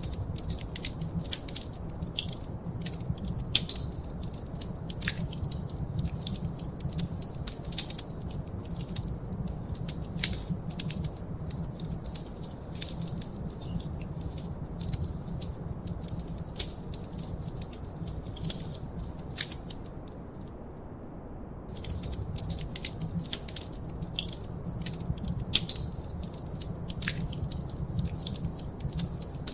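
Wood fire crackling in a fireplace: a dense run of sharp pops and snaps over a steady low rumble of the flames. The crackling stops for about a second and a half about twenty seconds in, then resumes.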